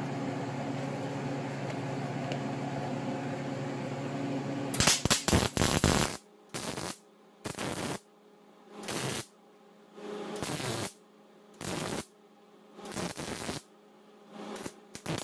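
MIG welder arc buzzing steadily on thin muffler sheet metal for about five seconds. Then comes a louder crackle, followed by about seven short bursts of arc crackle with brief pauses between them, as the welder stitch-welds in short tacks.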